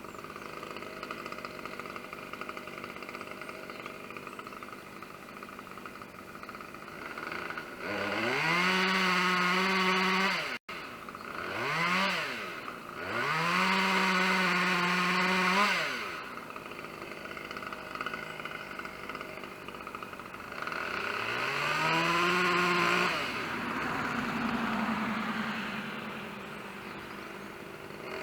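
Chainsaw idling, then revved up to full throttle three times, each time climbing quickly in pitch and holding high for two to three seconds before dropping back to idle.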